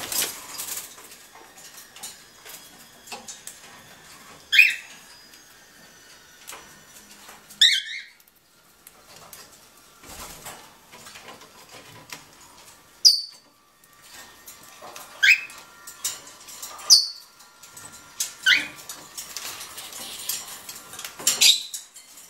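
Cockatiels and sparrows feeding together. Seven loud, short, sharp calls come every few seconds, with softer chirps and light ticking and rustling in between.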